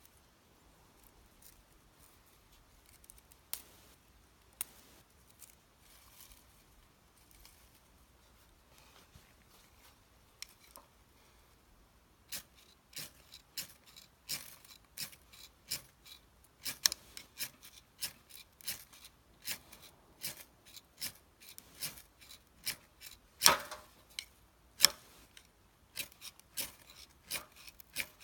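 Ferro rod fire starter struck again and again: a few sharp scrapes at first, then a steady run of short, sharp scrapes about one to two a second through the second half. The sparks are not lighting the tinder.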